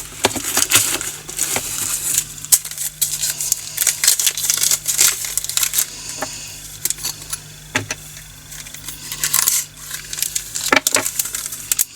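Tiny plastic resin diamond-painting drills poured into a plastic storage container, a dense clicking rattle of small beads with scattered sharper clicks.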